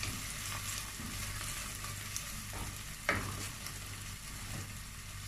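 Tomato and pepper paste frying with chopped onions, peppers and garlic in a stainless steel pot, sizzling steadily while a wooden spoon stirs it, with a few short scrapes and knocks of the spoon against the pot. The paste is being fried until its smell comes out.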